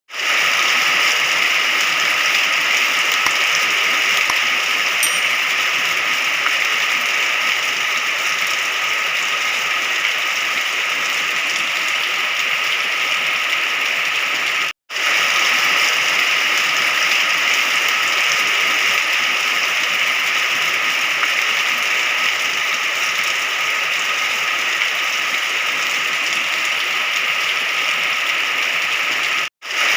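Steady rain, an even hiss of falling drops, that cuts out for a split second twice: about halfway through and near the end.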